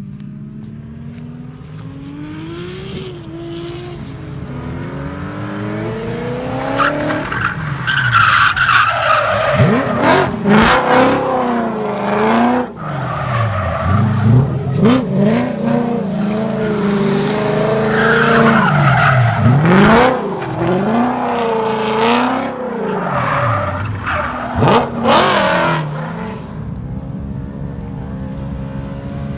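Drift car engine revving hard, its pitch swinging up and down over and over through a slide. It starts as a lower, steadier drone, is loudest through the middle, and eases back near the end.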